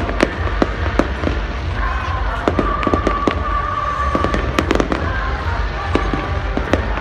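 Fireworks going off: many sharp bangs and pops at irregular intervals, a few a second, over a steady low rumble.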